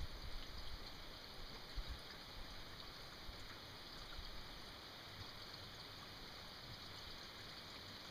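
Steady rain falling, an even soft hiss, with a few faint low knocks in the first couple of seconds.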